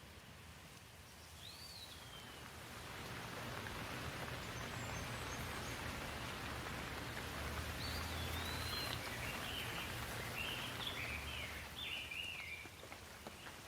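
Rain falling with a steady hiss that swells a couple of seconds in and eases off near the end. Birds chirp over it in the second half.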